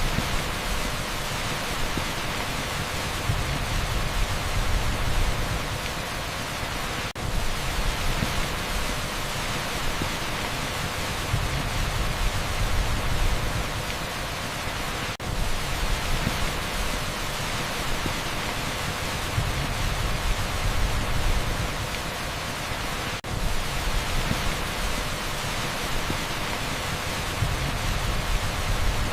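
Dense, steady rush of a torrential downpour on a street, as even as pink noise, with low swells of rumble every few seconds. The sound dips briefly about every eight seconds.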